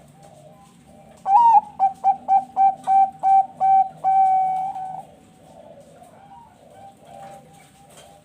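Zebra dove (Thai-bred perkutut bangkok) singing one phrase about a second in: an opening note, a quick run of about eight short clipped coos, then a longer held note that ends about five seconds in. Other doves coo faintly and repeatedly in the background throughout.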